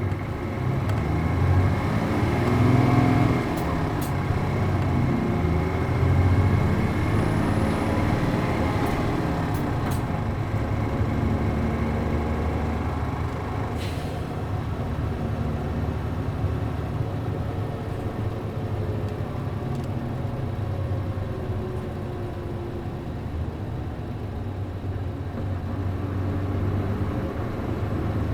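A city bus's MD92TJ diesel engine running under way, its pitch rising and falling in steps early on as it pulls through the gears of a five-speed manual, then settling to a steady drone. A few short sharp clicks sound over it.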